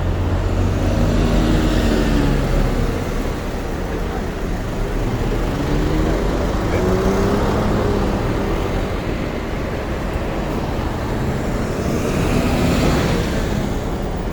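Street traffic with a heavy vehicle's engine running in a low rumble; the noise swells as vehicles pass about two seconds in and again near the end.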